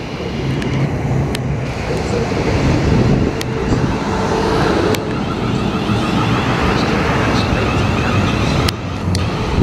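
A South Western Railway Class 450 Siemens Desiro electric multiple unit pulling into the platform and running slowly past close by, a steady rumble of wheels on rail under a faint steady whine from the traction equipment, with a few sharp clicks.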